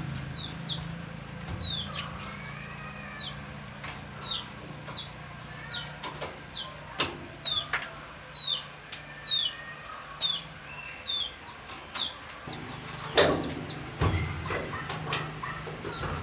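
Repeated high falling peeps, about two a second, typical of a young chick calling, stopping about twelve seconds in. A steady low hum runs underneath, and a few sharp knocks come near the end.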